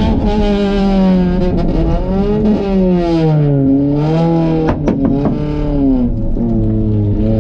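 Fiat Seicento's 900 cc four-cylinder engine heard from inside the cabin, revving up and down hard as the car is driven through the course. A few sharp clicks come about five seconds in, and then the engine settles to a steadier, lower note.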